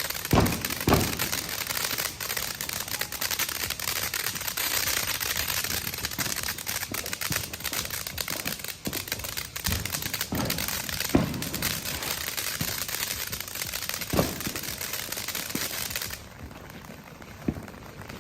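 Consumer firework fountain (Freedom Fireworks Live Laugh Love) burning with a dense, continuous crackle and a few deeper pops. The crackle cuts off sharply about sixteen seconds in as the fountain burns out, leaving only faint patter.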